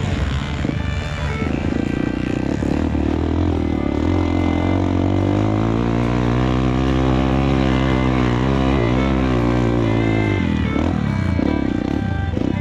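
Trail motorcycle engine running on the ride, its revs rising and falling, with background music underneath.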